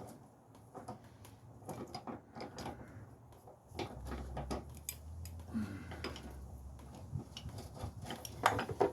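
Metal hand tools and parts clinking and clattering in an irregular run of sharp knocks as engine-mount bolts are worked on, with the loudest clank near the end. A low hum sits underneath for a few seconds in the middle.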